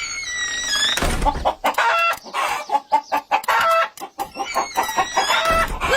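Chickens clucking in a rapid run of short calls, after a long falling call in the first second.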